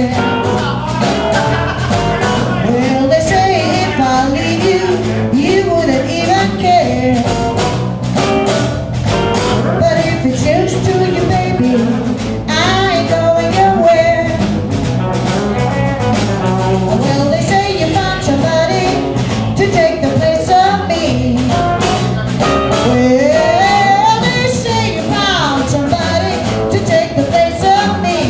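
Live band playing a bluesy rock-and-roll number, with guitar and a melody line over a steady rhythm section.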